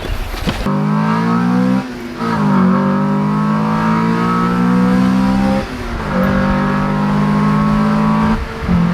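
Honda Civic EK4's B16 four-cylinder engine accelerating hard through the gears. The note climbs, drops at an upshift about two seconds in and again about six seconds in, then climbs once more before the throttle lifts near the end.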